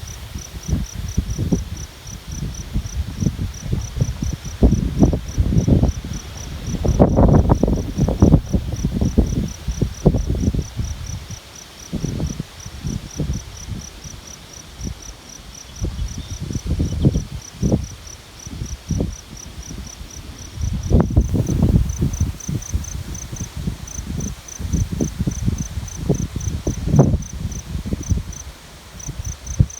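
Wind gusting over the microphone in low rumbling buffets that swell and fade, strongest about seven seconds in, again near twenty-one seconds and near the end. Over it an insect chirps steadily at a high pitch, about four chirps a second.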